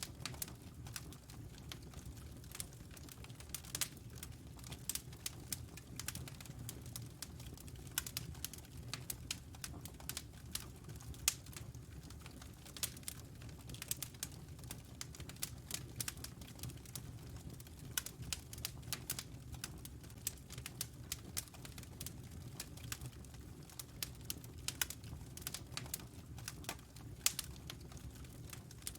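Wood fire burning in a fireplace, crackling with frequent, irregular sharp pops and snaps over a steady low rumble of the flames.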